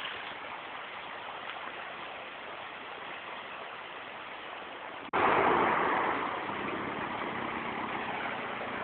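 Toyota Hilux off-roader's engine running steadily. About five seconds in the sound cuts abruptly to a louder rush that fades over a second or two.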